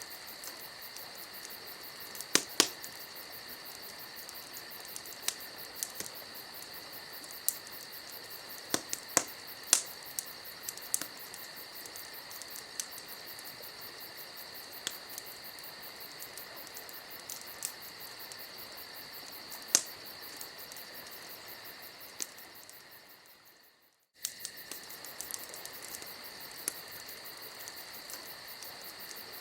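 Campfire ambience: a wood fire crackling with sharp pops every second or few, over steady crickets chirping. About 23 seconds in the sound fades out to silence and starts again a moment later.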